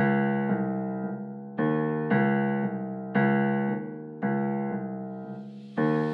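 Background film score of slow piano chords, struck in pairs about once a second and each left to ring and fade. A soft hissing swell rises toward the end.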